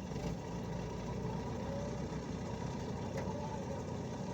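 An engine running steadily at a low, even rumble.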